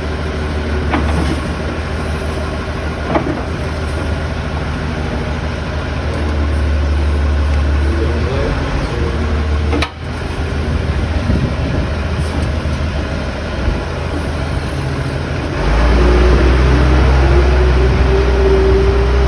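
Container forklift's engine running steadily; about three-quarters of the way through it grows louder as it revs, with a whine slowly rising in pitch.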